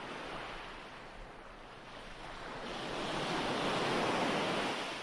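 Ocean waves washing on a shore, one wave swelling to a peak about four seconds in and then receding.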